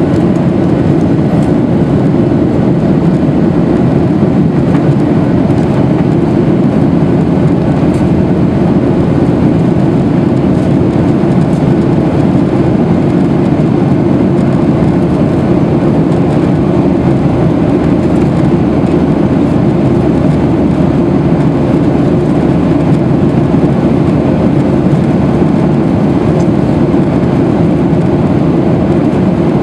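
Steady engine and airflow noise inside the cabin of a Boeing 737-800 in flight: an even, low rumble that holds the same level throughout.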